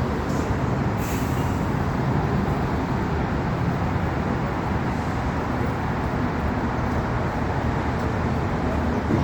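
Steady rumbling background noise with no clear pitch, with a couple of faint clicks about a second in.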